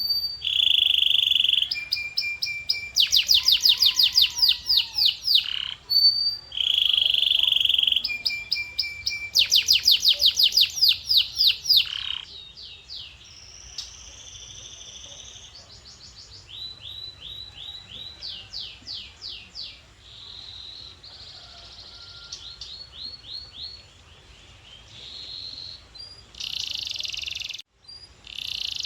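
Canary singing a long song of rapid trills and rolls with held whistled notes, loud for about the first twelve seconds, then softer. There is a brief break near the end.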